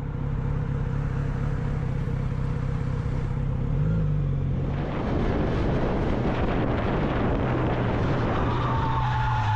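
Vehicle driving: a steady low engine hum under road and wind noise, which grows fuller about five seconds in. A faint high tone sounds near the end.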